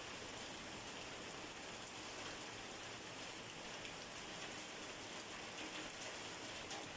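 Steady rain falling and pattering on a surface, an even hiss with a few faint separate drop ticks.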